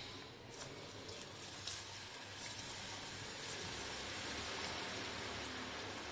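Marinated raw jackfruit kebab pieces, coated in an egg, cornflour and kebab-powder masala, sizzling in hot oil as they deep-fry: a steady sizzle with fine crackles, growing slightly louder.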